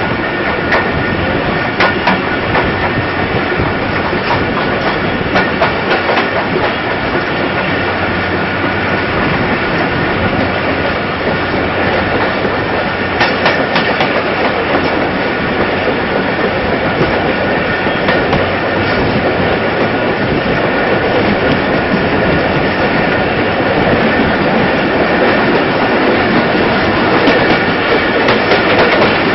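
Passenger train coach running along the track, heard from an open coach window: a steady rumble of wheels on rail with sharp clacks now and then, getting slightly louder toward the end.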